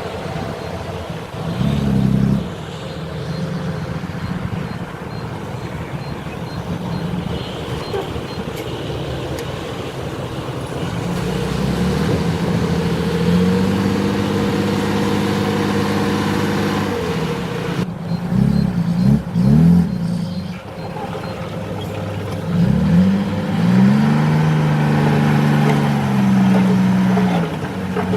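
Heavy diesel engines of earthmoving machinery running, revving up and down several times, with the pitch rising and falling in short swells.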